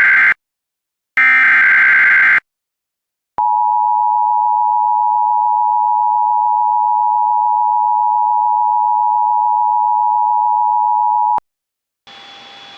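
Emergency Alert System SAME header followed by the attention signal. First two short, harsh bursts of warbling digital data tones, then after a second's pause the steady two-tone alert tone, held for about eight seconds before it cuts off abruptly. It marks the start of a new emergency warning broadcast.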